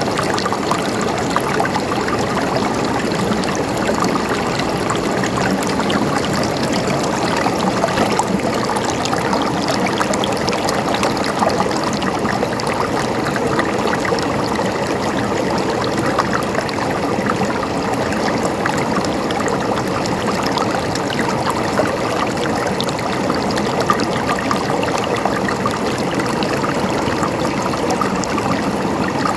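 Flowing water gurgling and trickling steadily, with a constant bubbly splashing and no pauses.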